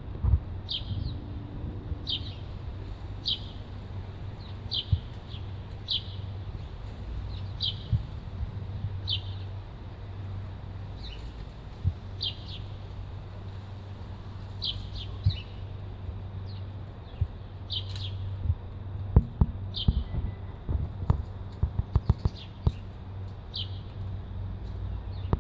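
Small songbirds chirping: short high chirps, roughly one a second, over a low steady hum. From about three-quarters of the way in, a run of sharp taps and knocks sounds over the chirping.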